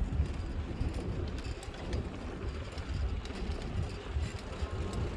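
Wind buffeting the microphone in an uneven low rumble while riding a bicycle, with scattered light clicks and rattles from the ride.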